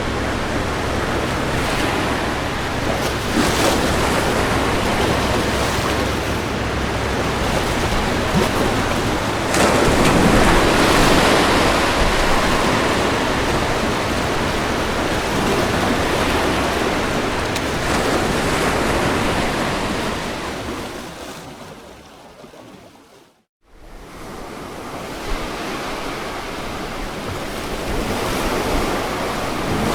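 Ocean waves breaking on a shore: a continuous rush of surf with a bigger wave swelling about ten seconds in. Over twenty seconds in, the sound fades away to a moment of silence and comes straight back, like the join of a looped recording.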